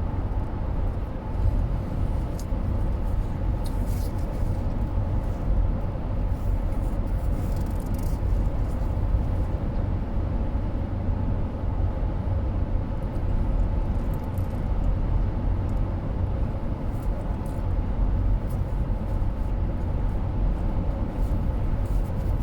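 Steady road and engine rumble inside a moving car's cabin, deep and even, with a faint steady hum and a few light clicks.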